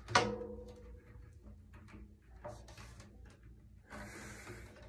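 A sharp knock of drum hardware against a drum, with the drum ringing briefly after it. Small handling clicks follow, then a short scraping rustle near the end.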